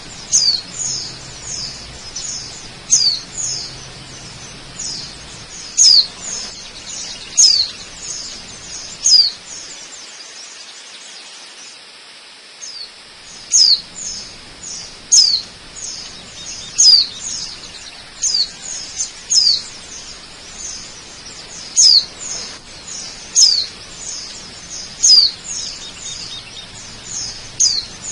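Birds calling over a steady rush of waterfall water: short, high whistled notes that sweep downward, one every second or so, with a pause of a few seconds near the middle.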